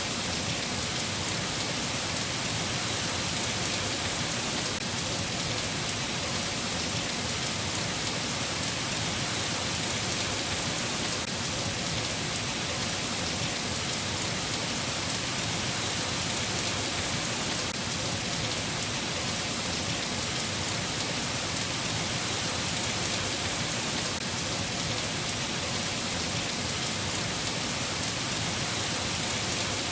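Steady rain falling: an even, unchanging hiss of drops, with no thunder.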